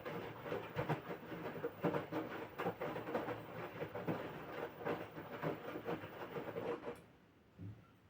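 LG 6.5 kg washing machine mid-wash, its drum turning and tumbling the wet laundry with an uneven churning. The drum stops about seven seconds in, and in the quiet pause that follows there is one soft knock.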